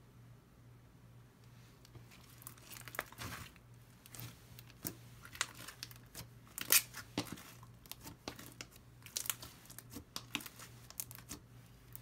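Fishbowl slime with beads mixed in, squished and pressed by hand, giving irregular crunchy crackles and pops. A faint steady low hum runs underneath.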